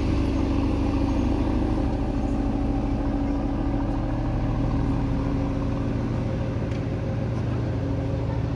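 Aston Martin DB11 engine running steadily at low revs as the car creeps slowly away.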